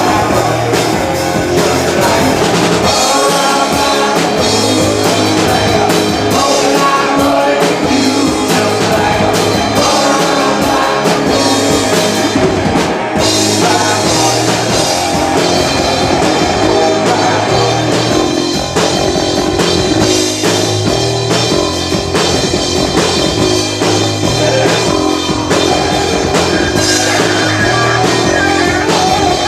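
Live rock band playing, with electric guitar, drum kit and a singer, recorded loud from the audience.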